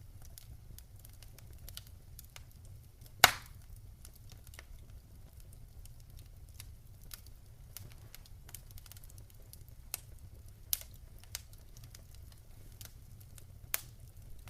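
Wood fire in a fireplace crackling with scattered sharp pops, one loud pop about three seconds in and a few smaller ones near the end, over a low steady rumble.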